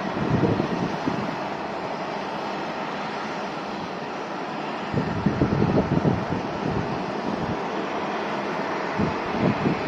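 Steady broad roar of jet aircraft noise at an airport, with wind buffeting the microphone in gusts about a second in, for a second or so around the middle, and again near the end.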